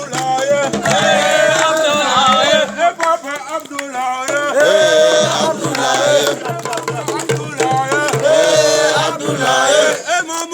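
Voices singing a chant-like song, with sharp percussive beats running under the singing.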